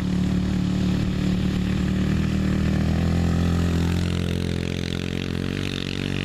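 Yamaha TT-R110 pit bike's small four-stroke single-cylinder engine running steadily at low revs.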